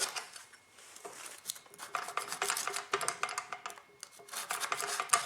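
Hand tool scraping built-up dirt, grease and old silicone sealant off the top of a HMMWV transmission case, in quick repeated scraping strokes after a short pause near the start.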